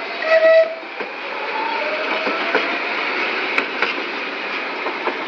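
CAF electric multiple unit pulling away and running past close by, a steady rumble of wheels on rail with a few sharp clicks. A brief, loud, shrill squeal sounds about half a second in.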